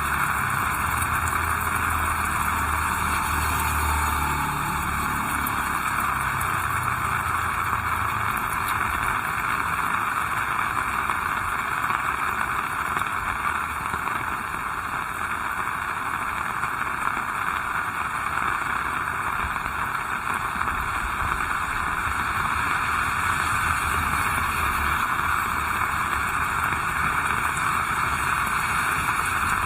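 Heavy rain falling steadily, an even hiss, with a low rumble underneath during the first five seconds or so.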